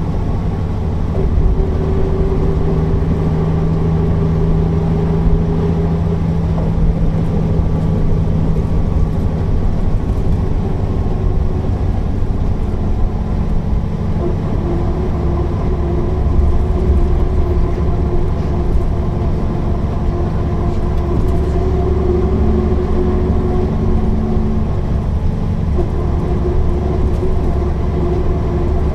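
Mercedes-Benz O408 bus's diesel engine running under way, a steady low rumble with engine tones that shift in pitch several times as the bus drives.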